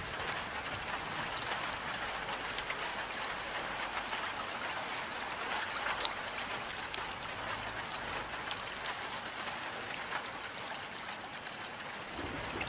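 Steady rain falling, a continuous hiss with scattered sharp drip and drop ticks.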